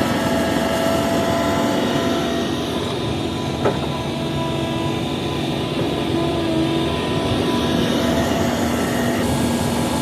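Hitachi ZAXIS 350H excavator's diesel engine running steadily, with a single sharp knock a little over a third of the way in.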